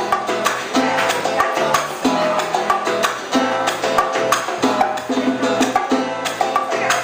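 Live old-school Cuban band music in a salsa style: a steady, busy percussion rhythm under pitched melody instruments.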